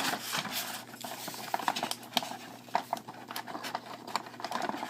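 Toy packaging being handled: irregular small plastic clicks, taps and rustles as a figure is worked free of its plastic tray.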